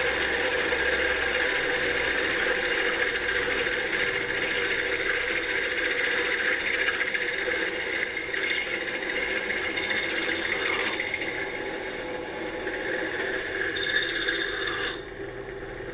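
Electric drill boring a 12 mm hole through a cast aluminium plate, running steadily with some rattling, then stopping suddenly near the end.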